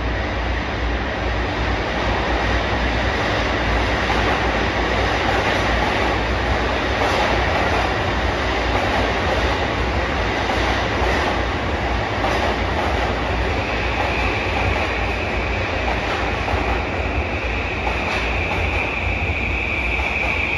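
Another electric commuter train runs in on the adjacent track of an underground station platform, heard through the open doors of a standing train as a steady rumble of wheels and motors with a low hum. About fourteen seconds in, a steady high whine joins and holds.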